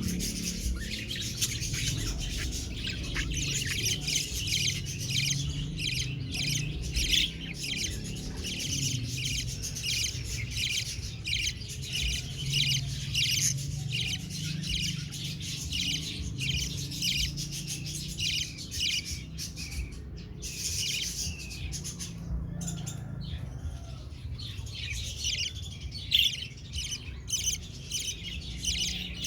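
Young budgerigars, about two months old, chirping and chattering in a dense stream of short high calls, thinning out briefly past the middle, over a steady low hum.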